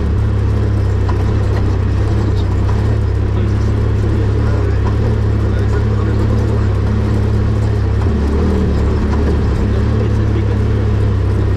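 Car engine running steadily with a low rumble, heard from on board while driving along a dirt track, with tyre and body noise mixed in.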